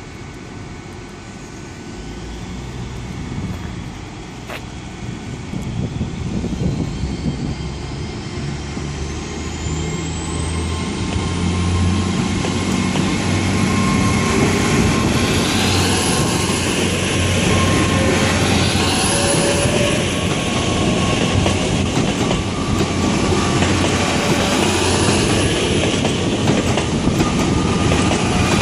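GWR Class 802 bi-mode IET pulling away from the platform under diesel power, its engines growing louder and a high traction whine rising in pitch as it accelerates, then holding steady with rolling rail noise.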